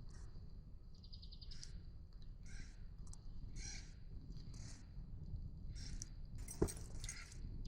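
An animal calling over and over in short harsh calls, about one a second, with a single sharp crack about two-thirds of the way through.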